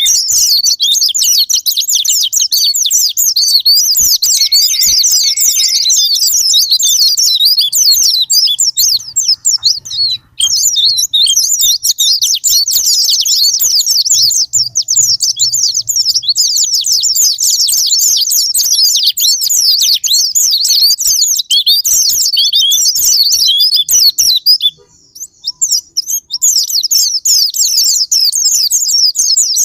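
Several white-eyes (pleci) singing together in a dense, rapid stream of high chirps and twitters. The song breaks off briefly about ten seconds in and drops out for about a second and a half near the end before resuming.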